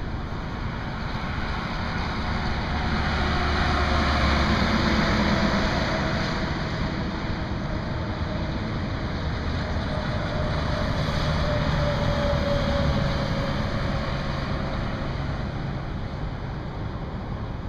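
Highway traffic passing: a steady hiss of tyres and engines swells as a vehicle goes by, fades, then swells again as another passes, each with a faint engine or tyre tone that drops slightly in pitch as it goes by.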